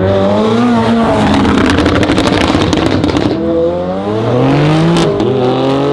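A car accelerating hard at full throttle, loud, its engine note climbing in pitch, dropping back at upshifts and climbing again.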